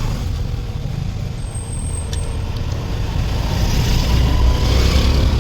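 Steady low rumble of passing road traffic, with a vehicle swelling past about four seconds in.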